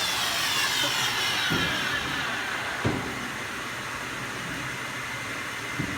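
A power saw cutting wood winding down after the cut, its motor whine falling slowly in pitch and fading over the first few seconds. Three short knocks come in as it runs down.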